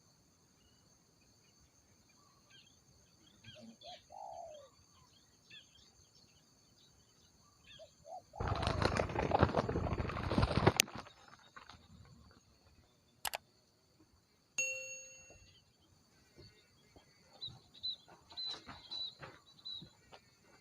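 A dove's wings flapping hard in a rush lasting about two seconds, followed by two sharp clicks and a single metallic ding that rings briefly before fading. Faint short bird calls sound around them.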